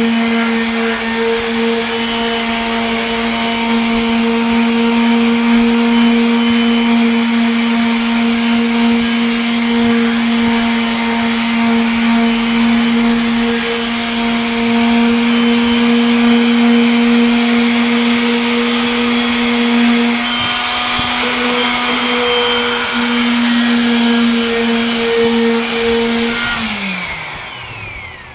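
Electric sander running steadily on a headlight lens, a strong hum over a hiss, then switched off and winding down with a falling pitch near the end.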